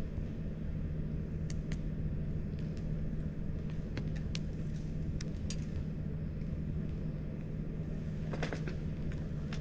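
Wood campfire crackling: scattered sharp pops and snaps, with a quick cluster of them near the end, over a steady low hum.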